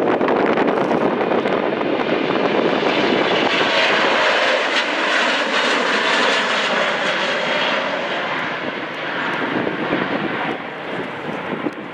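Jet airliner passing close by with loud engine noise. The sound grows brighter and hissier toward the middle, then fades near the end.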